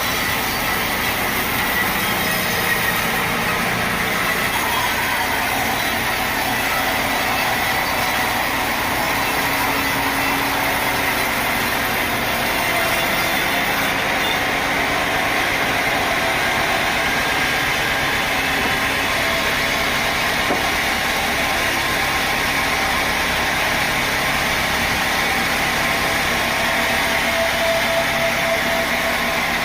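Sawmill machinery running steadily: a loud, even mechanical noise with a faint whine.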